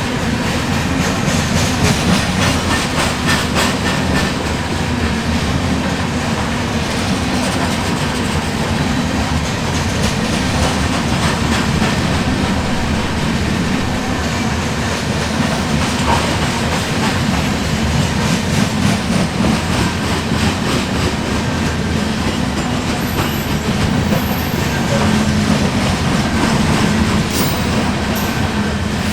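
Freight cars of a grain train rolling past with a steady rumble and rhythmic clicking of wheels over rail joints. A few brief high wheel squeaks come near the end.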